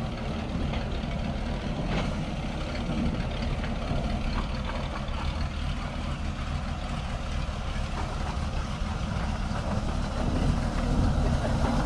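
A car engine idling with a steady low rumble, growing louder near the end.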